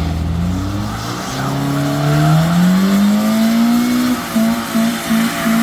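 A car engine revving hard, its note climbing steadily for about three seconds, then holding a high note that pulses on and off about three times a second.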